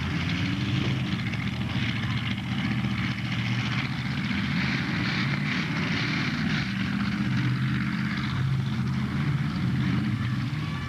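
Demolition derby car engines running together, a steady low drone.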